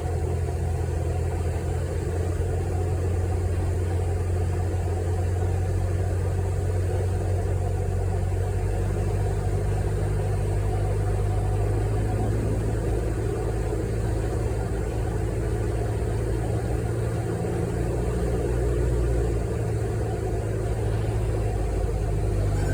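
Steady drone of an airliner's engines and airflow heard from inside the cabin, a low even hum with a hiss above it; the low pitch shifts slightly about halfway through.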